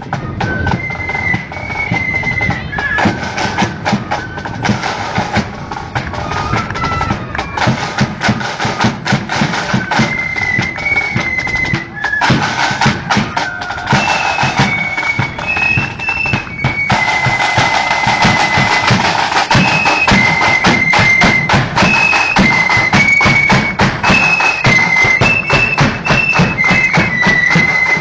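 Marching flute band playing a tune: a high, shrill flute melody over rapid snare drumming and bass drum beats. The band gets louder and fuller about halfway through.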